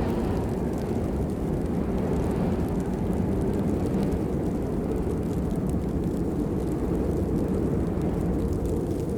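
Steady rain: a dense, even wash of low-pitched noise with sparse faint drop ticks above it.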